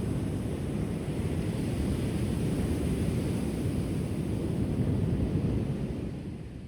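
Ocean surf washing onto the shore: a low, steady rumble of waves that swells midway and eases off near the end, with wind buffeting the microphone.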